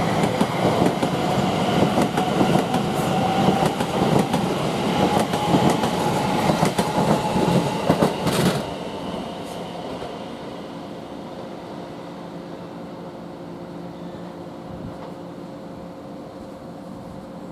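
Greater Anglia Class 720 electric multiple unit pulling out past the platform, its wheels clicking over rail joints and a motor whine rising gently as it speeds up. About eight and a half seconds in, the last coach clears and the noise drops suddenly to a quieter steady hum with a few level tones.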